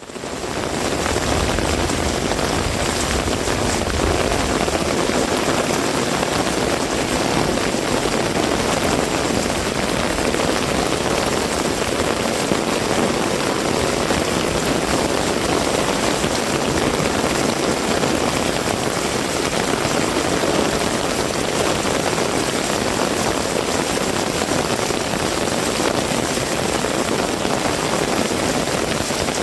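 Heavy rain falling steadily, fading in over the first second, with a low rumble under it during the first few seconds.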